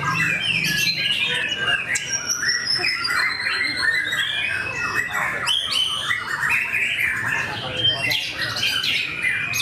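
White-rumped shama (murai batu) singing a fast, continuous, varied song of whistles, chatters and slurred notes, with a long falling whistle about two seconds in.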